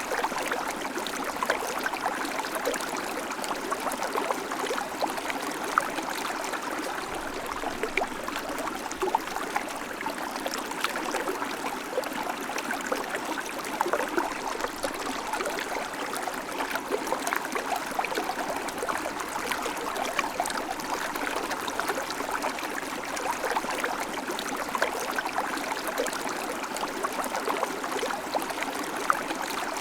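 River water flowing steadily over rocks: a continuous rush with many small splashes and gurgles.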